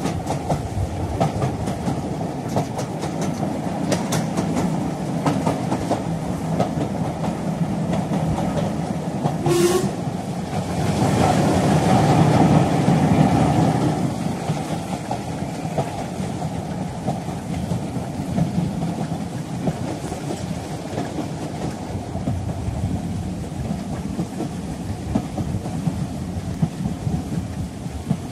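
A steam train arriving, with steady running noise of the cars on the rails. There is a brief sharp sound just under ten seconds in, and the train gets louder for a few seconds from about eleven seconds as it passes close.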